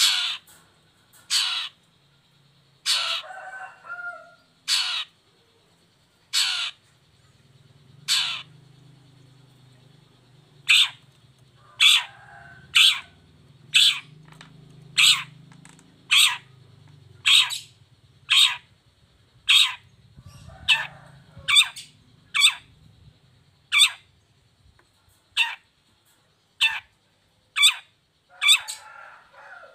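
Long-tailed shrike (cendet) giving short harsh calls over and over, at first a second or two apart, then settling into a steady run of about one call a second.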